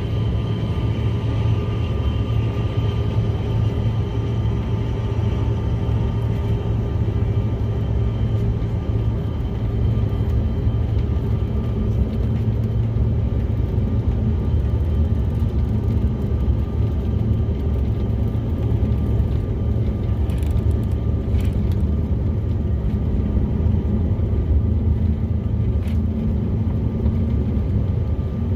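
Jet airliner engines at takeoff power: a loud, steady, heavy rumble, with a thin engine whine over it that fades during the first ten seconds or so.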